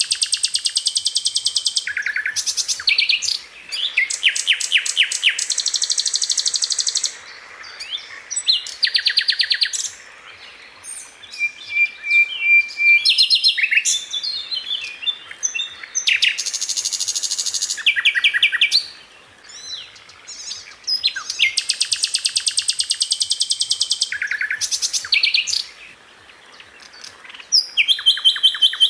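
Sikatan londo (a flycatcher) singing in rapid-fire bursts: fast, high-pitched trills of one to two seconds each, separated by short pauses filled with single chips and brief phrases.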